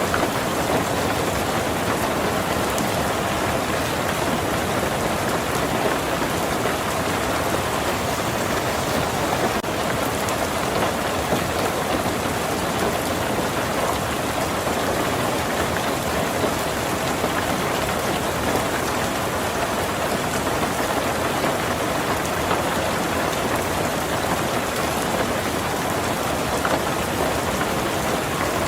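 Heavy rain falling steadily on a tin roof: a dense, even patter of drops without let-up.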